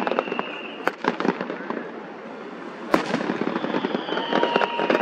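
Fireworks going off: a quick run of crackling pops in the first second or so, a single sharp bang about three seconds in, then a high whistle sliding down in pitch near the end among more crackles.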